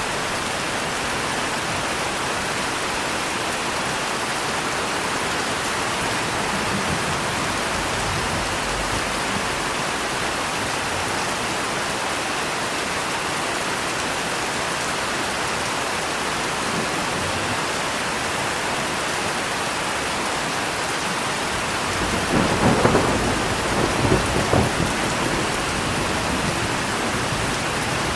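Steady heavy rain with a thunderclap rumbling in several surges about three-quarters of the way through.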